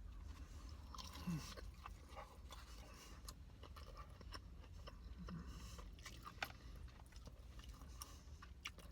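Faint, close-up chewing of extra crispy fried chicken tenders, with soft crunches and wet mouth clicks, over a steady low hum.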